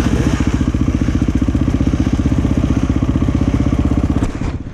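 A motocross motorcycle engine running steadily close by, an even rapid putter with no revving, which drops away sharply near the end.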